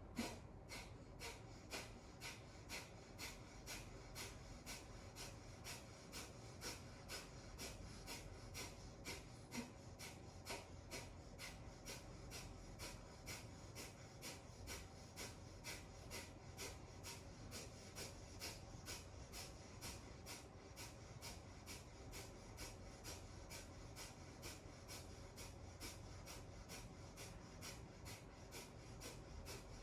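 Kapalabhati (breath of fire) breathing: rapid, forceful exhalations pushed out through the nose by the belly, in a steady rhythm of about two a second, each followed by a passive inhale. Faint.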